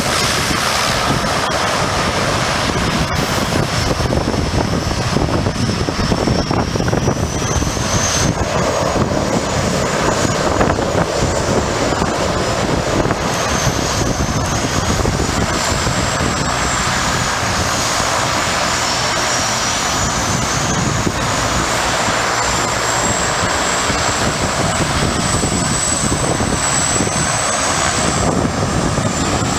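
Small propeller aircraft's engine running steadily and loudly, with a thin high whine that drifts up and down in pitch.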